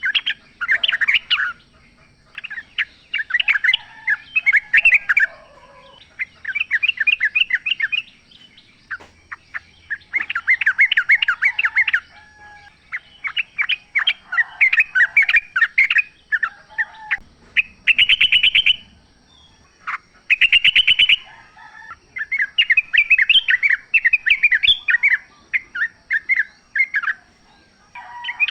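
Yellow-vented bulbul (trucukan) singing in the wild: phrase after phrase of rapid chirps, each about one to two seconds long, with short pauses between.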